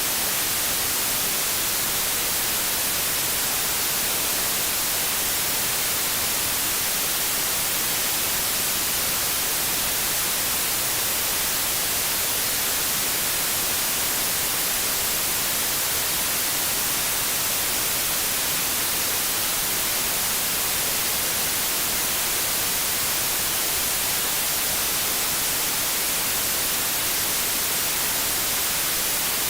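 Steady TV static hiss: the even white noise of an untuned television, unchanging and strongest in the high range.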